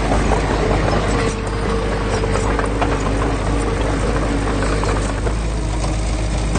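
Heavy diesel engine of earthmoving machinery running steadily under load, with scattered short knocks and clanks over it.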